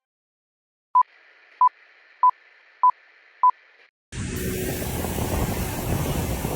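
Five short electronic beeps, all at one pitch and evenly spaced about two-thirds of a second apart, over a faint hiss. About four seconds in, a steady rushing noise cuts in suddenly and grows louder.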